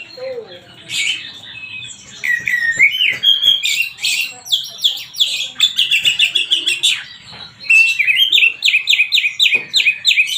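Songbird singing a loud, varied song of chirps and whistles, ending in fast runs of repeated descending notes. It is a lure recording meant to make Oriental magpie-robins sing back.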